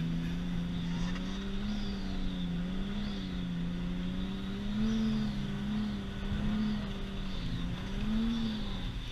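Nissan Stagea's RB25 straight-six heard from inside the cabin, its revs swelling and falling back about once a second as the throttle is worked while drifting.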